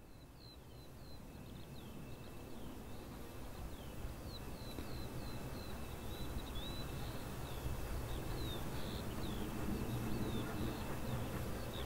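Small birds chirping in quick, repeated short notes over a low rumble that grows steadily louder.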